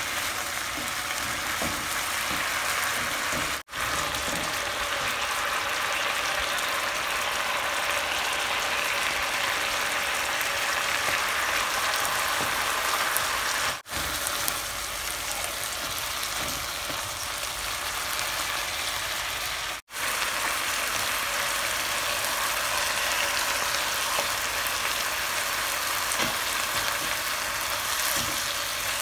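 Shimeji mushrooms and shrimp in oyster sauce sizzling steadily in a nonstick wok as they are stir-fried with a spatula. The sizzle cuts out briefly three times.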